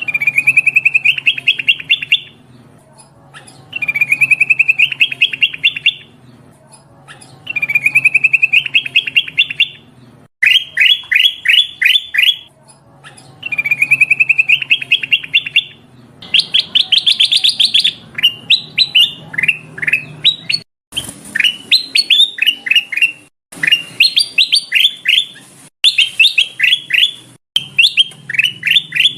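Kutilang emas bulbul calling: repeated high chirping phrases about two seconds long, each a quick run of rising notes, with short pauses between. About halfway through the notes turn quicker and choppier.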